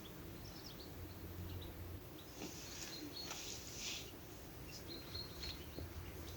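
A few faint, short, high bird chirps over a low, steady outdoor background noise.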